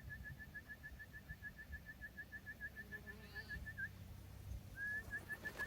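A rapid, even trill of short whistled notes at one steady high pitch, about eight a second, breaking off a little before four seconds in and starting again near the end.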